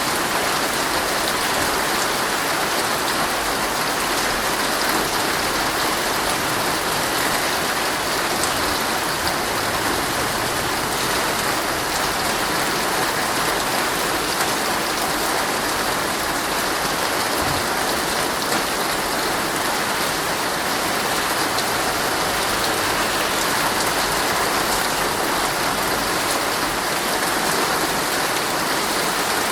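Heavy rain drumming steadily on a tent's fabric, a dense even patter with scattered individual drops ticking through it.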